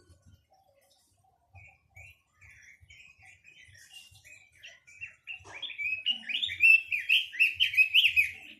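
Caged quế lâm songbird singing: scattered short chirps at first, then from about five seconds in a fast, loud run of warbled notes that lasts to the end. Faint low taps repeat under the song.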